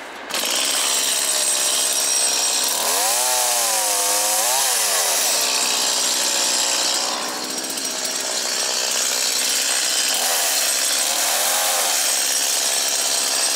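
Chainsaw revving up about a third of a second in and running at high speed through birch firewood, its pitch wavering twice as the cut loads it.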